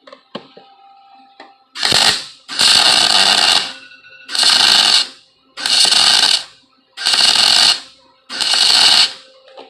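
Electric welding arc, most likely a MIG welder, crackling in six short bursts with brief pauses between them as steel mirror brackets are stitch-welded.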